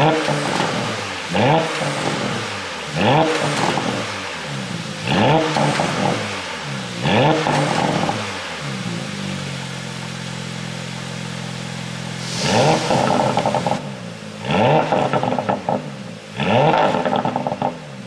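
A 2018 Porsche Panamera 4S's twin-turbo V6 being blipped at standstill: short revs of about a second each, roughly every two seconds, each followed by a crackly fall back to idle. Five blips, then a steady idle for about three seconds, then three more blips.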